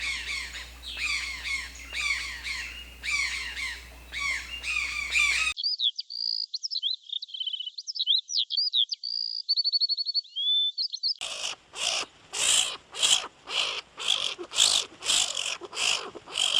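Three short animal-sound clips edited back to back: first repeated falling bird calls, then a thin high bird song with quick trills, then sharp calls repeated about twice a second.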